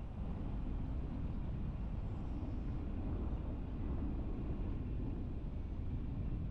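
Steady low rumble of a car driving, with tyre and engine noise.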